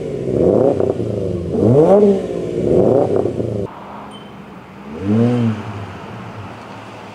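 Subaru Legacy 3.6R's flat-six engine revved in neutral through a muffler-delete axleback exhaust: three quick rev blips, each rising and falling in pitch, then after a sudden drop in level one quieter blip about five seconds in.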